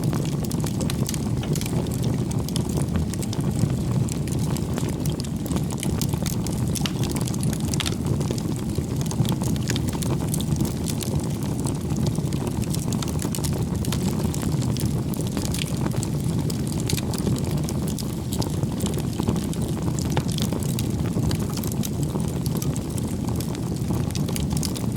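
Bonfire of firewood burning: a steady low rumble of flames with frequent small crackles and pops scattered throughout.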